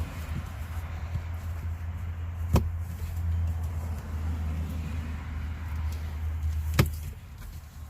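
Steady low hum in a truck cab, with two sharp plastic clicks from accessories being pressed into place, one about two and a half seconds in and another near seven seconds. The hum dies away just after the second click.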